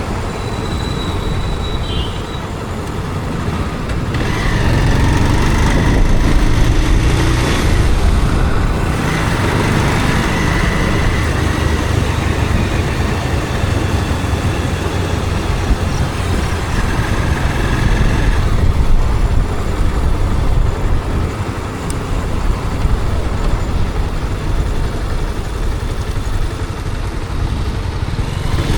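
Riding a motorcycle through city traffic: a steady engine and wind rumble with the noise of passing vehicles, and a few brief high tones standing out now and then.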